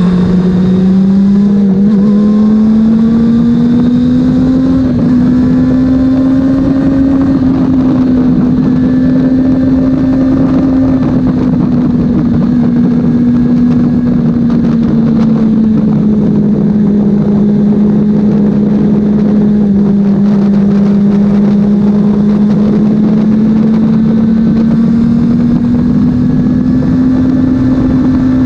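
Honda CB400 Super Four's inline-four engine running hard at high, fairly steady revs, its pitch climbing at the start and then drifting slowly up and down without a break.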